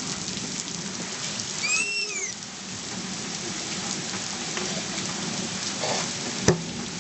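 Heavy rain falling steadily in a thunderstorm, a constant hiss. A short high-pitched call rises and falls about two seconds in, and a single sharp click sounds near the end.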